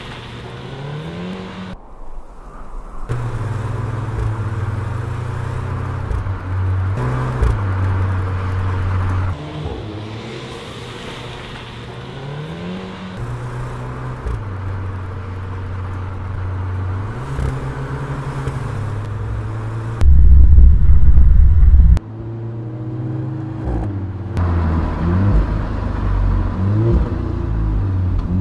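Alfa Romeo Giulietta Quadrifoglio Verde's 1750 turbocharged four-cylinder engine and exhaust, the note rising under throttle and stepping back down in turn. It breaks off abruptly several times, and the loudest stretch is a two-second blast about two-thirds of the way through.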